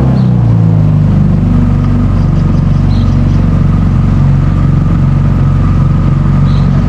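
Boat's outboard motor running steadily at speed.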